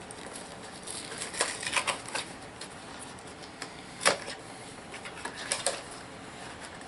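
HeroClix booster pack being opened and handled: scattered plastic clicks and crinkles, with one sharp click about four seconds in.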